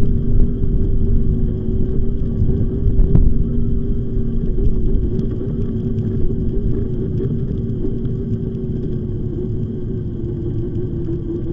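E-bike underway: a steady low rumble with a constant motor whine that drops slightly in pitch near the end, and faint scattered clicks.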